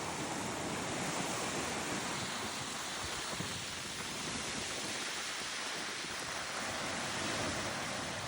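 Steady rush of lake waves and wind at the shore, with wind buffeting the microphone.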